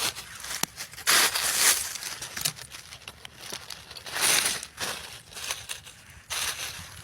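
Crackly rustling and crunching in dry forest-floor litter, in separate bursts: at the start, about a second in, about four seconds in, and near the end.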